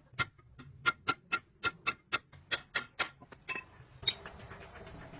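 Rapid metal-on-metal strikes, about four a second, each with a brief ring: a hammer tapping on steel parts during truck axle bearing work. They thin out after about three and a half seconds.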